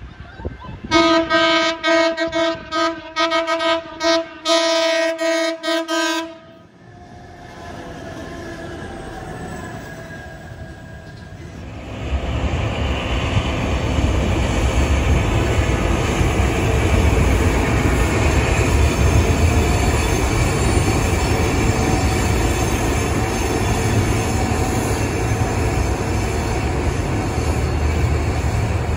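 A diesel locomotive sounds its multi-note horn in several blasts, the last one longest. After a break, a diesel-hauled freight train rumbles steadily past with wheel and rail noise.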